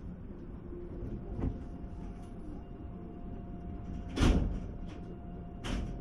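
Steady low hum of an E2 series Shinkansen train standing at a station platform. Three short knocks break over it, the loudest about four seconds in, and a faint steady tone comes in about a second in.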